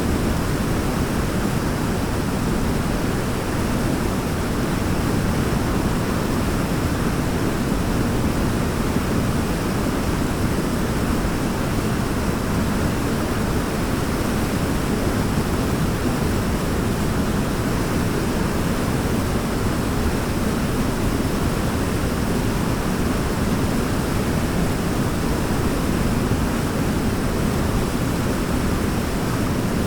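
Waterfall rushing steadily: a dense, unbroken roar of falling water, heaviest in the low end.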